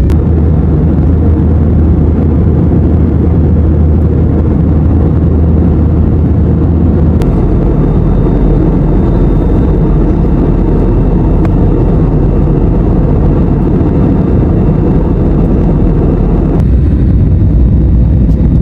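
Steady, loud engine and airflow noise of a passenger jet heard from inside the cabin, with a deep rumble that shifts about seven seconds in and again near the end.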